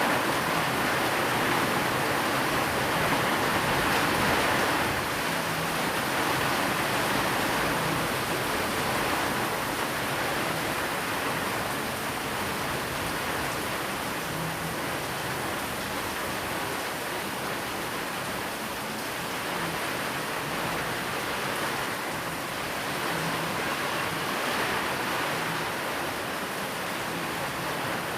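Steady rainfall, an even rushing hiss, mixed with white noise; slightly louder in the first few seconds.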